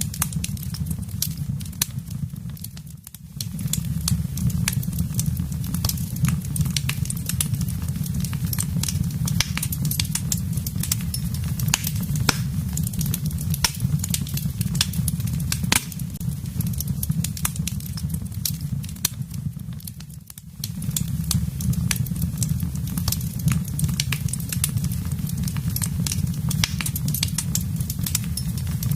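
Wood fire crackling in a fireplace: a dense stream of sharp pops and snaps over a steady low rumble of flames. The rumble dips briefly twice, about 3 and 20 seconds in.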